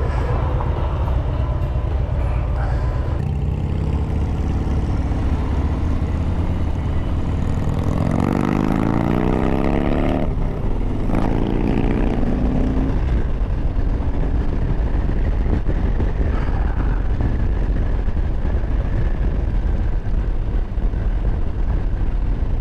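Harley-Davidson Road Glide's V-twin engine running under way with heavy wind noise. About eight seconds in, the engine revs up with a rising pitch, dips briefly at a gear change, then rises again.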